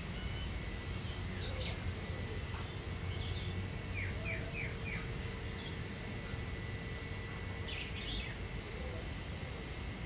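Birds chirping, with a run of four quick falling notes about four seconds in and more short calls near the end, over a steady low background rumble.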